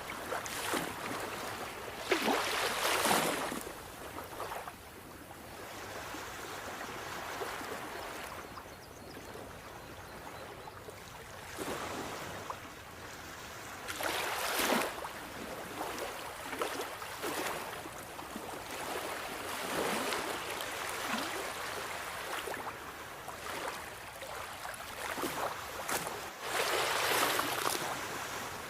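Sea waves washing in on a shore: a steady hiss of water with several louder surges of breaking surf, the strongest near the start, in the middle and near the end.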